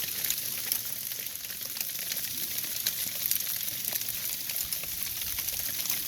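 Wintry mix of rain, snow and ice pellets falling, a dense crackling patter of many small ticks.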